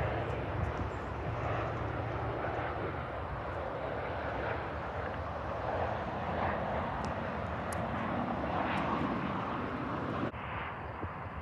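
Airplane engines running with a steady, even rush of noise. Near the end the sound changes abruptly as the higher hiss drops away.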